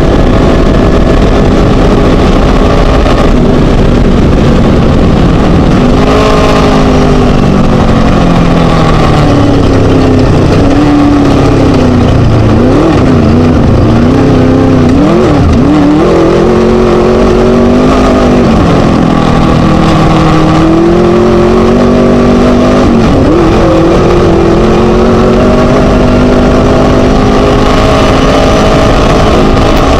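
Chenowth DR2 class 1 desert race buggy's Scat engine running hard at race pace, very loud. The revs rise and fall again and again, with several quick sharp dips and flares about halfway through.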